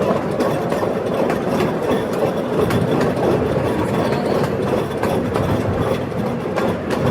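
Ride-on amusement train running steadily, heard from aboard: a continuous rumble with light rattling and clacking from the cars.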